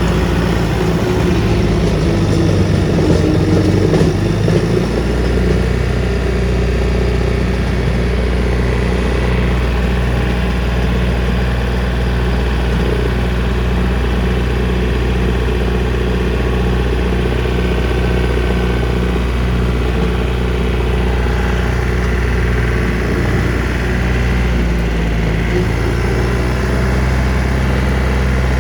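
John Deere 3025D compact tractor's three-cylinder diesel engine running steadily while driving a brush hog (rotary cutter) through its PTO, mowing in first gear low range. Louder and rougher for the first few seconds, then an even running drone.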